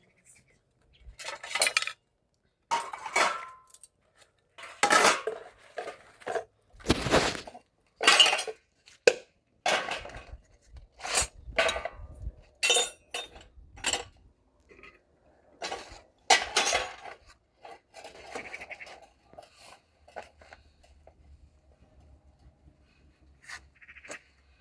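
Dishes and metal pots being handled and set down, clattering and clinking at irregular intervals, busier in the first part and fainter near the end.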